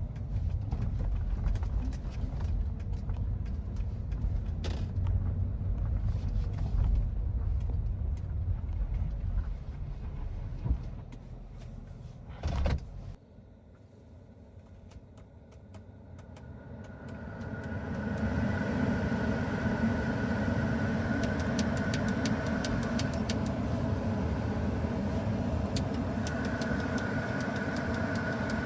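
Low rumble of a car in motion, then a sudden thump after about twelve seconds and a quieter lull. After that a steady hum with a high whine sets in, the whine briefly dropping out near the end.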